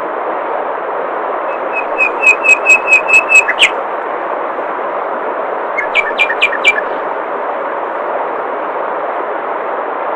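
Steady rush of running water, with a songbird singing two quick runs of repeated notes: about eight notes ending on a rising one about two seconds in, and a shorter run of about five notes around six seconds.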